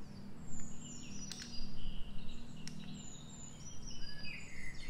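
Small birds chirping in the background in short, repeated gliding calls, over a steady low hum, with a couple of light clicks.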